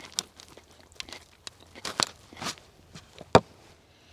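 Eating sounds: a spoon knocking and scraping in a bowl of soup, with soft chewing between. One sharper clink comes near the end.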